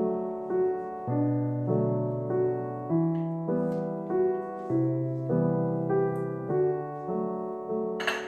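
Slow, gentle solo piano music, its notes and chords changing about every half second.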